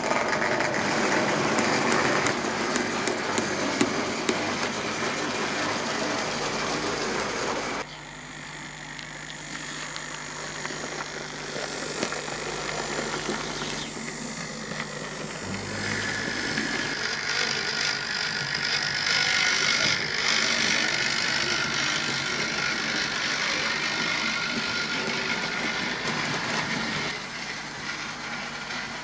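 OO gauge model trains running along the track, the small electric motors and wheels making a steady rattling whirr. It drops suddenly about eight seconds in, and a steady high whine joins it from a little past halfway.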